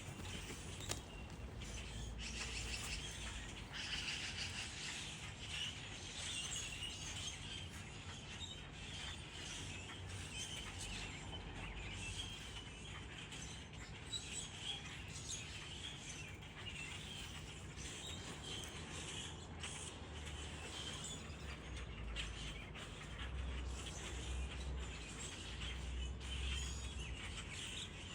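Wild birds chirping and calling many times over, with a steady low rumble underneath.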